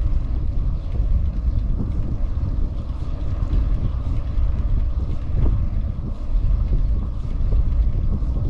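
Wind buffeting the microphone on a moving bicycle, a steady low rumble.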